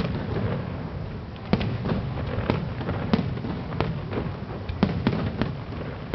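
Fireworks display: about seven sharp bangs at irregular intervals, over a continuous low rumble of further bursts.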